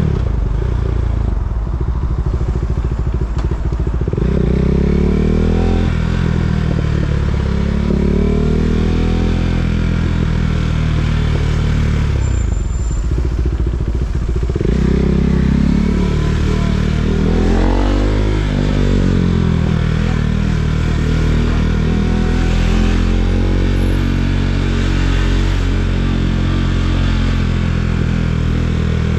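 KTM 390 Duke's single-cylinder engine running while riding, its pitch rising and falling repeatedly as the rider accelerates and rolls off the throttle.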